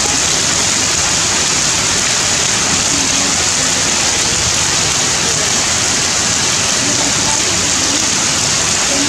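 Heavy rain falling steadily, a loud, even hiss of downpour with no break.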